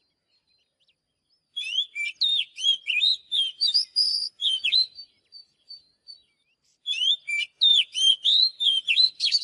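Oriental magpie-robin singing: two long phrases of rapid, varied whistles and chirps, the first starting about a second and a half in, the second about seven seconds in.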